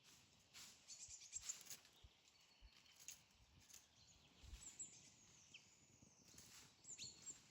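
Faint outdoor ambience with a few high bird chirps about halfway through and again near the end, over soft scattered rustles.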